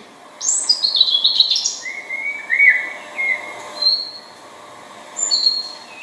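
Painted bunting singing: a quick run of high notes stepping downward, then a few lower warbled notes, and scattered single high notes near the end.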